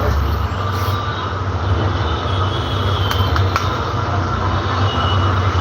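Steady background noise: a low hum under an even hiss, with a few faint clicks about three seconds in.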